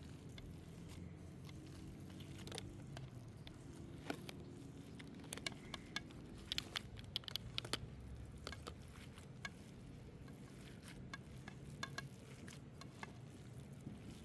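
Cooking sounds: a run of sharp clicks and taps, thickest in the middle, over a faint steady low rumble, with some sizzling.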